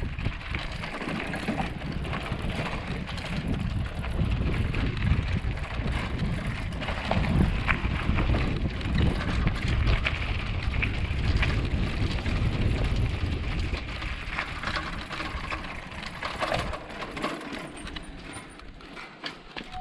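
Bicycle being ridden over a rough, rocky off-road track: tyres crunching and the bike rattling and clicking over bumps, with a low rumble of wind on the microphone that eases near the end.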